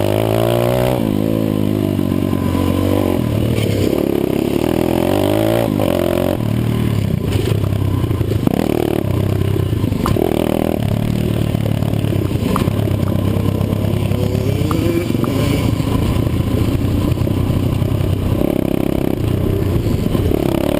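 150cc single-cylinder four-stroke pit bike engine, revving up and falling back again and again as it is ridden around a motocross track and shifted through the gears.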